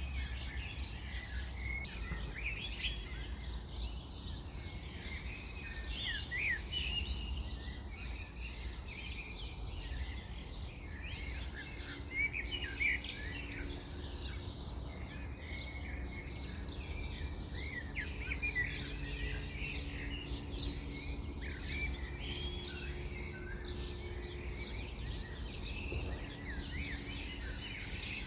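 Several songbirds chirping and singing in overlapping, quick phrases, over a low steady rumble.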